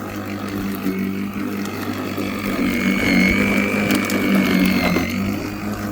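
Worx 40 cm cordless battery lawnmower running, its electric motor and blade giving a steady hum, with a high thin whine joining in about halfway through.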